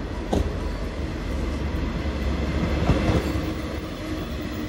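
Train running on the rails with a steady low rumble, a sharp click about a third of a second in and a few more wheel knocks around three seconds in.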